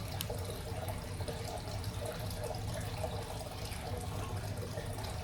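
Steady low hum with a faint hiss of background room noise, and one light click about a quarter of a second in.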